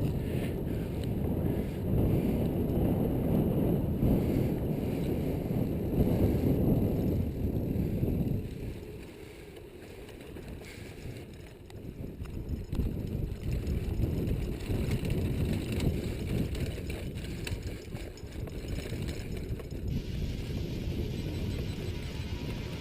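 A mountain bike being ridden, with wind rumbling on the microphone. It eases off about eight seconds in, then picks up again a few seconds later.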